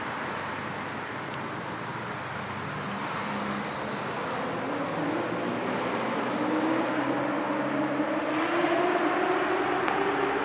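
Road traffic ambience: a steady rush of tyre and engine noise, with a vehicle accelerating through the second half, its engine pitch rising as it grows louder.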